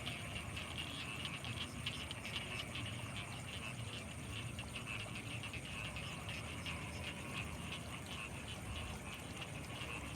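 Frogs calling in a dense, steady night chorus of rapid overlapping croaks and clicks, with a thin steady high-pitched tone above them.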